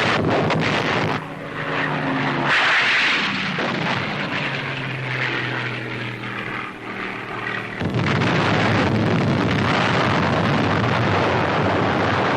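Propeller-driven Navy plane's piston engine droning steadily, with loud rushing noise near the start and again through the last few seconds.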